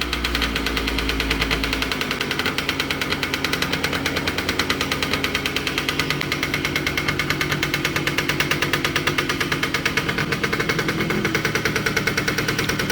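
1976 Yamaha Chappy's single-cylinder two-stroke engine idling with a rapid, even putter after its rebuild, the revs dropping back to idle in the first couple of seconds.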